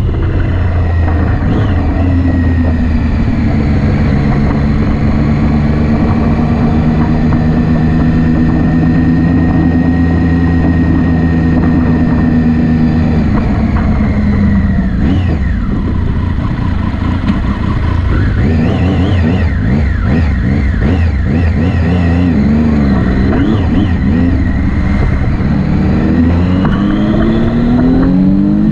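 Motorcycle engine running under way, holding a steady pitch for several seconds, then dropping and rising again and again as the throttle is closed and opened.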